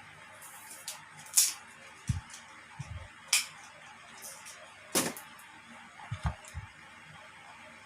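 Handling sounds from searching through a phone's retail box and packaging by hand: scattered sharp clicks and taps at irregular intervals, with a few dull thumps.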